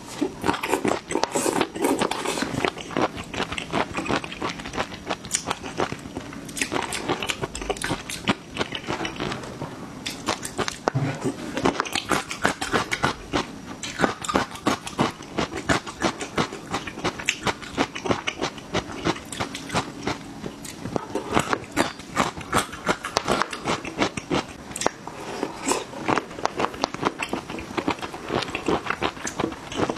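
Close-miked eating: biting into and chewing fresh shrimp and garlic, a dense, continuous run of crunching clicks.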